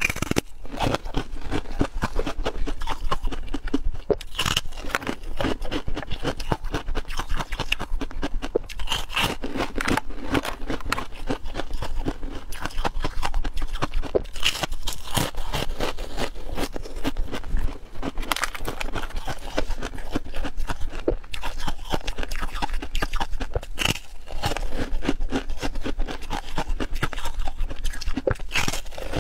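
A person biting into and chewing frozen ice-cream blocks, close to the microphone: a continuous crackling crunch with louder bites every few seconds.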